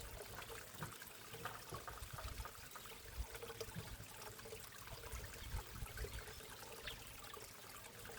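Water trickling and splashing steadily in a backyard koi pond, faint, with an irregular low rumble underneath.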